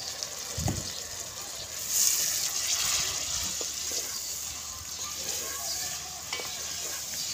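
Ginger-garlic paste sizzling in hot oil with frying onions in a metal pot, stirred and scraped with a spoon; the sizzle grows louder about two seconds in. A dull knock comes just before, as the paste bowl meets the pot.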